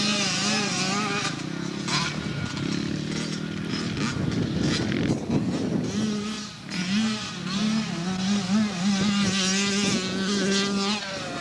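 Dirt bike engine running, its pitch rising and dipping repeatedly as the throttle is worked.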